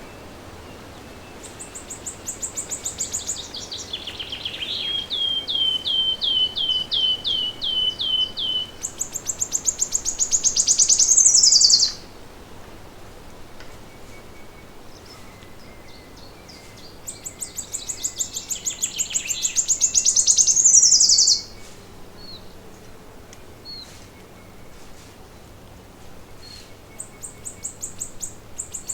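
A songbird singing long, high-pitched phrases of rapid repeated notes, each phrase growing louder and ending abruptly. A long phrase runs about ten seconds and a shorter one about four seconds, and another begins near the end.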